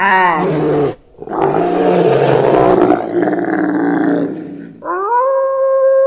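Brown bear roaring and growling: a short pitched bellow, then a long rough growl. About five seconds in, a grey wolf starts one long howl, rising at the start and then held steady.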